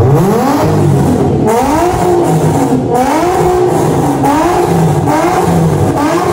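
Nissan 350Z's 3.5-litre V6 blipped repeatedly in place, its pitch rising and falling back about once a second, through a full stainless three-inch exhaust that splits into twin mufflers.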